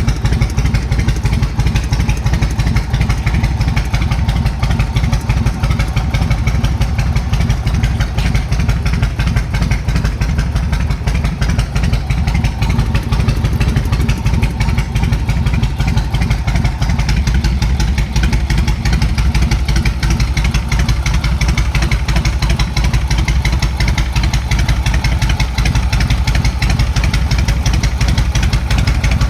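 Yamaha Road Star 1700's air-cooled pushrod V-twin, carbureted, running steadily through aftermarket exhausts with an even, fast pulsing beat and no revving.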